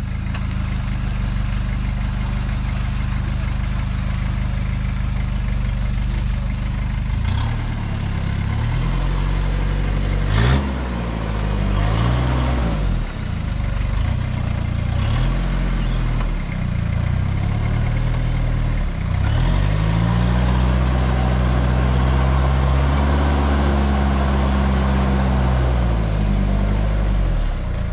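A rock-crawling 4WD's engine idles steadily, then revs up and falls back again and again as the truck works over rocks under load. A sharp knock comes about ten seconds in.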